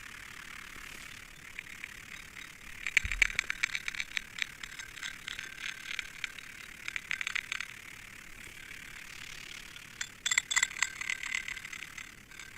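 Runs of rapid, irregular clicking and rattling, starting about three seconds in, fading out around seven seconds, and starting again near ten seconds, over a faint steady hiss.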